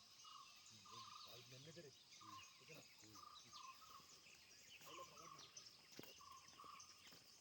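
Near silence: faint, hushed voices and a short, thin call that repeats every half second to a second.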